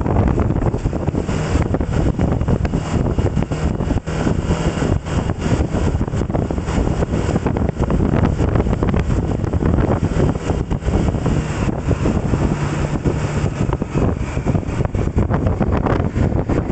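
Heavy wind buffeting on the microphone of a moving vehicle, with the vehicle's running noise underneath: a loud, steady rush with constant low fluttering.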